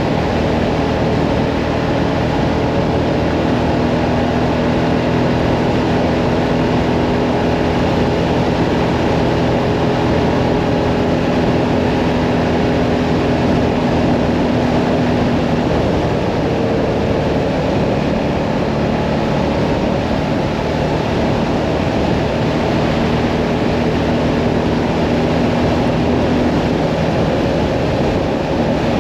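Hyosung Mirage 650 V-twin cruiser motorcycle running steadily at road speed, its engine note mixed with wind and road rush. The engine note shifts slightly about halfway through, then settles again.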